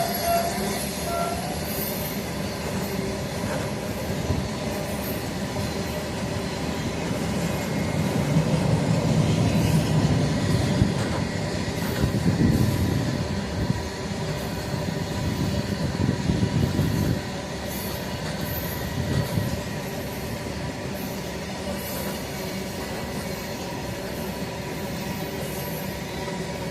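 Train running on the track, with a steady hum and a heavier rumble for about ten seconds in the middle that drops away suddenly.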